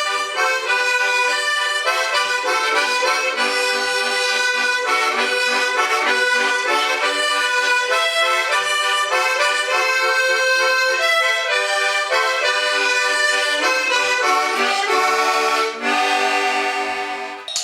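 Launeddas, the Sardinian triple reed pipes, playing a quick folk melody over a steady drone.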